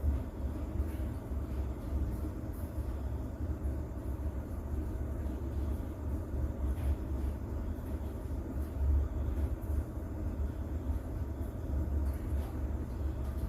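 Rain with a steady, deep rumble of distant thunder underneath and faint scattered drop ticks, a continuous sleep-sound ambience.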